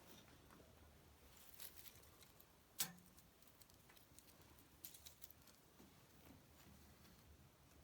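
Wood fire crackling faintly in a fireplace: scattered small pops and ticks, the loudest a sharp pop about three seconds in.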